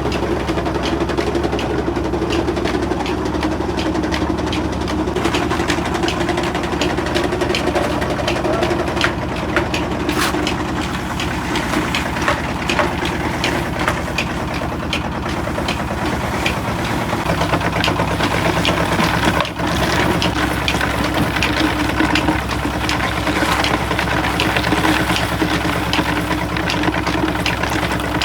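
Engine-driven machinery running steadily, with scattered sharp knocks and clatter over the hum.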